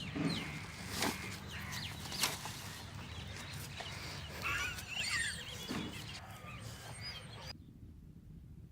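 Birds chirping in short, quick calls, mixed with a few sharp clicks or knocks; the higher sounds cut off abruptly near the end.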